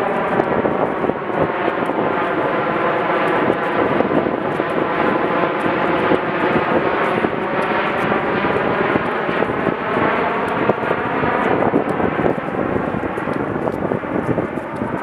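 Lawn mower engine running steadily, its pitch drifting slightly up and down.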